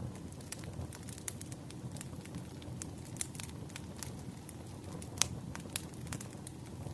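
Burning firewood crackling: irregular sharp pops and snaps over a steady low rush, with one louder pop about five seconds in.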